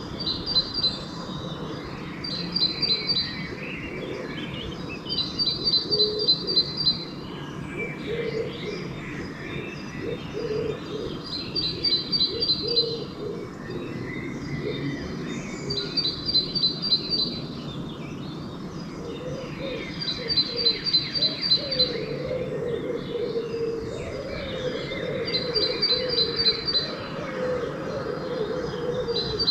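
Dawn bird chorus: a small songbird repeats a short, fast run of high, even notes every two to four seconds, with softer calls from other birds behind it. A pigeon coos low underneath, mostly in the second half.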